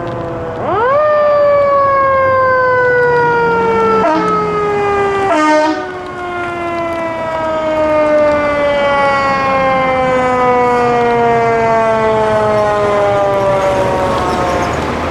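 Fire apparatus siren winding up fast about a second in, then sliding slowly down in pitch for over ten seconds in the coast-down of a mechanical siren. A short horn blast comes about five seconds in.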